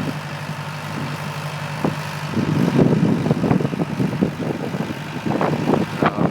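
Motor vehicle engine idling: a steady low hum that drops out about two seconds in, followed by uneven rumbling noise.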